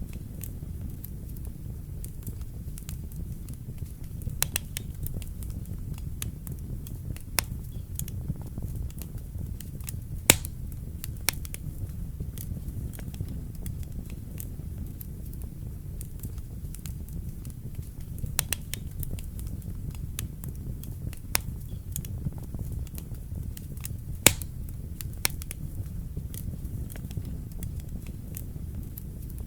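Fire burning in a fireplace: a steady low rumble of flames with scattered crackles and sharp pops, two pops standing out louder, about ten seconds in and again near the three-quarter mark.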